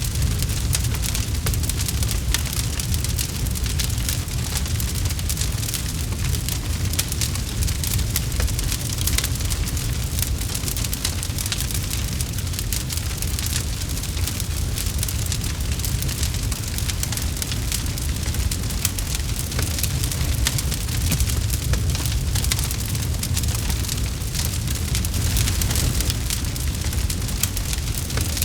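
Campfire crackling: a dense, steady stream of small sharp crackles and pops over a low rumble of the burning wood.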